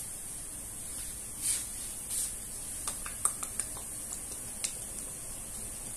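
Noodles frying in a wok with a steady sizzle. Two short swells of hiss come about a second and a half and two seconds in, and a few sharp clicks follow around the middle.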